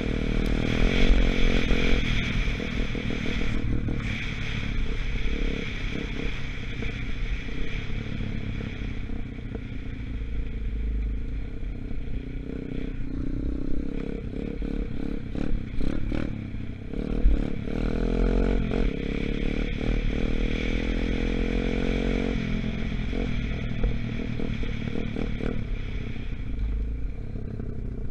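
125cc Gunshot dirt bike engine running while ridden, its pitch going up and down with the throttle, with a longer climb in revs about two-thirds of the way through. Clattering and sharp clicks from the bike come through, mostly around the middle. The engine is still in its break-in period.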